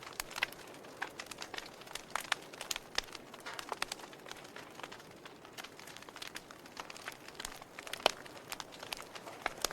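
Wood fire in a fireplace crackling, with irregular sharp pops and snaps over a soft hiss of burning logs. The pops thin out in the middle, and one loud snap comes near the end.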